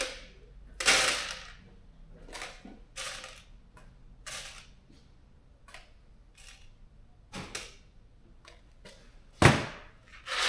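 Irregular clatter of hard objects being handled: a dozen or so short clicks and knocks, with a longer rattle about a second in and a heavy thump near the end.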